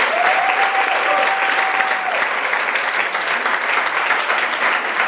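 Audience applauding steadily, with a single held high note, a cheer or whistle, over it for about the first two seconds.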